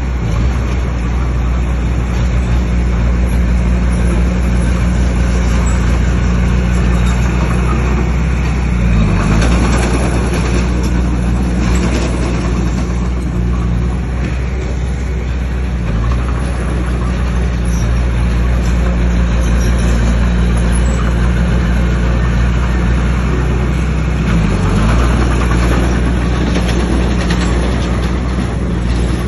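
Bulldozer's diesel engine running hard under load as it pushes stone fill. Its speed dips briefly and recovers twice, over a steady clattering noise from the machine at work.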